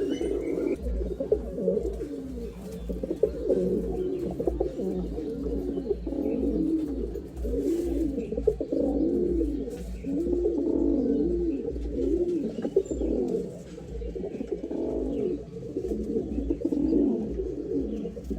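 Domestic pigeons cooing: a long run of repeated low coos, each rising and falling in pitch.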